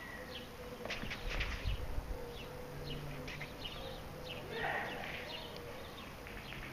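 Small birds chirping in short, scattered calls, with a few low thuds about a second or two in.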